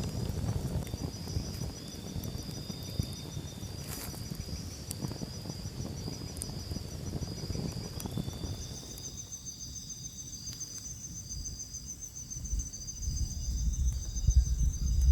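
Crickets and other night insects trilling steadily, several high, pulsing trills overlapping, over a low rumbling noise that drops away about nine seconds in and builds again near the end.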